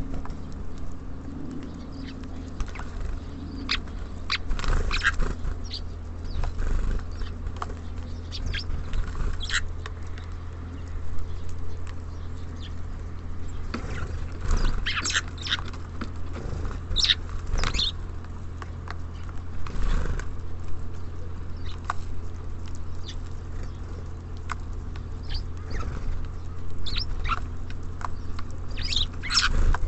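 Small birds at a feeder: many short pecks, taps and wing flutters, with brief high chirps scattered through, over a steady low rumble.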